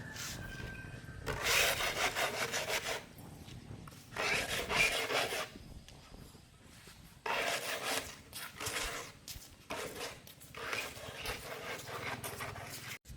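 A hand tool rasping against a hard surface in repeated bursts of fast strokes, each burst lasting a second or two, with short pauses between.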